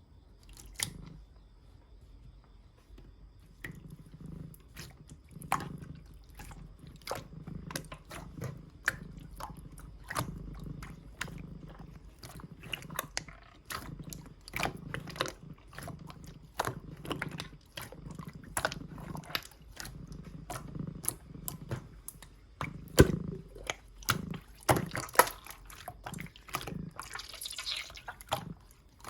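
Clear slime being squeezed and pressed by hand, giving a steady run of short wet clicks and pops, a couple a second. They come thicker and louder about three quarters of the way through.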